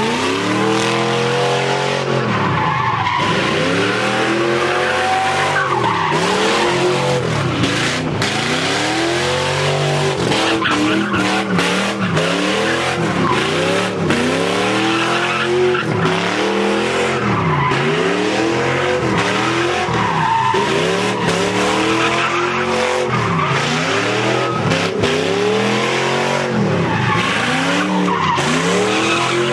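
Car engine revving up and down again and again, with tyres squealing and skidding throughout, as during donuts or a burnout.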